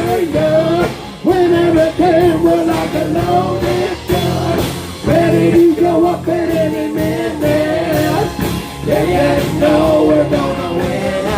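Rock music from a band: a sung melody held in long, slightly bending notes over guitar and a steady beat.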